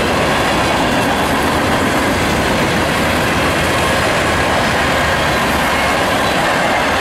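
Freight train of tank cars and covered hopper cars rolling past: a steady, unbroken noise of steel wheels running on the rails.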